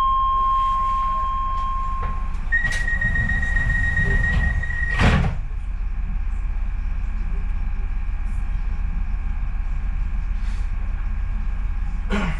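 Docklands Light Railway train door warning: a steady tone for about two seconds, then a higher tone for about two and a half seconds, and the sliding doors shut with a thump about five seconds in. After that the train's steady low rumble, with a smaller knock near the end.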